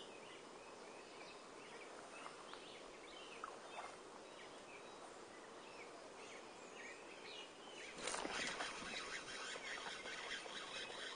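Birds chirping and calling now and then over a faint, steady outdoor hiss; about eight seconds in, a louder, noisier sound comes in and stays.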